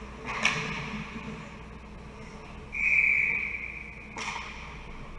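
A referee's whistle blows once, a short, steady, shrill tone of under a second about three seconds in, over the steady rumble of an ice rink. Sharp knocks come about half a second in and again just after the whistle.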